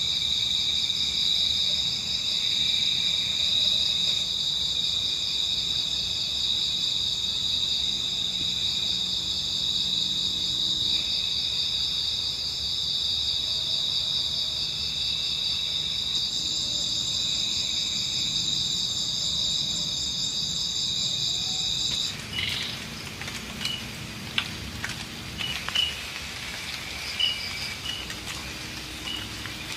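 Night insects, crickets, trilling steadily and high-pitched for most of the stretch. About two-thirds of the way through they cut off abruptly, giving way to light drizzle with scattered dripping drops and a faint chirp repeating about once a second.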